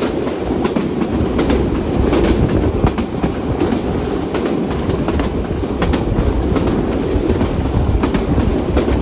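Intercity passenger train running at speed, heard from beside its coach: a steady rush of wheels on rail and air, with sharp clacks of the wheels over rail joints, often in quick pairs, recurring under a second apart.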